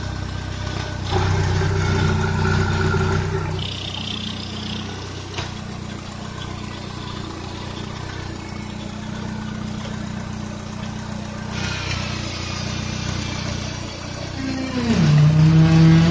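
Opel Astra G's X16SZR 1.6-litre four-cylinder petrol engine idling steadily. Near the end it is revved up and gets louder.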